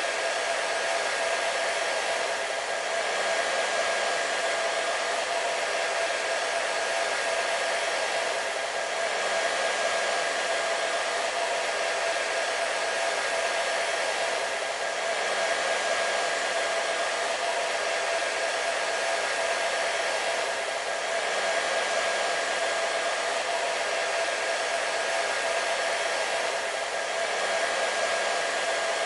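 Hair dryer running steadily: a continuous airy rush with a steady whine in it, swelling gently about every six seconds.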